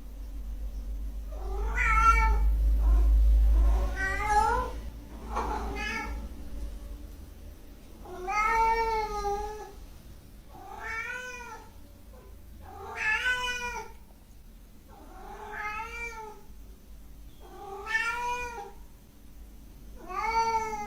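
A cat meowing over and over, about nine long meows, each rising then falling in pitch. A low rumble sits under the first few seconds.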